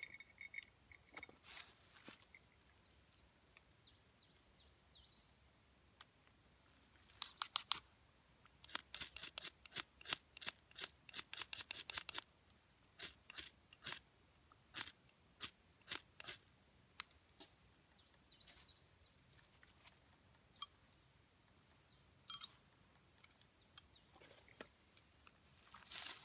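Dry twigs snapping and crackling in quick sharp cracks. A short dense burst comes about a quarter of the way in and a denser run follows in the middle, then single snaps every second or two.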